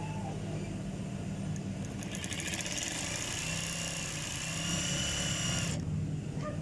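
Single-needle sewing machine: its motor hums steadily, and about two seconds in the machine runs for roughly four seconds with a high whirr, then stops abruptly.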